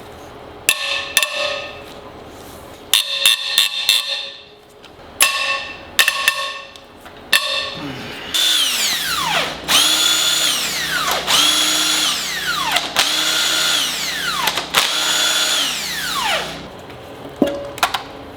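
Several sharp metallic strikes that ring briefly, as with a hammer tapping on engine parts. From about eight seconds in, a power tool motor runs in four bursts, each holding speed and then winding down in pitch.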